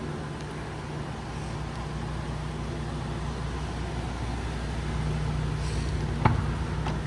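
Ford 6.8L V10 gas engine of an ambulance idling with a steady low hum, and a single sharp click about six seconds in.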